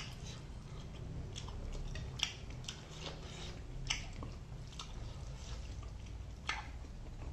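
Close-miked chewing and biting of food, with scattered wet mouth clicks and three sharper clicks about two, four and six and a half seconds in.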